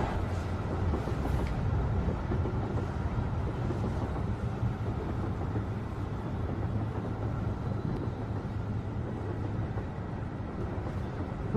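Subway train running, heard from inside the carriage as a steady low noise.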